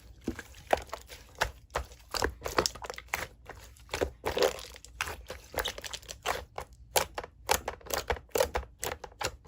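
Slime being squished and poked by hand, giving a fast, irregular run of sticky clicks and pops.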